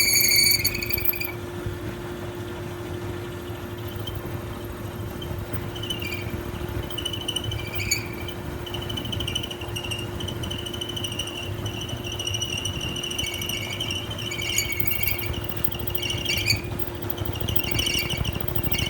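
Whirlpool stacked washer-dryer running with a steady hum and a high-pitched squeaking. A long squeal fades out about a second in, and short squeaks come and go from then on, more often near the end.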